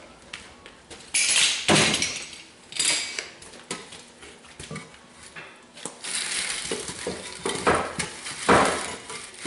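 Clattering and scraping as tools and gear are handled, with several sharp knocks, a cluster about a second in and more in the second half.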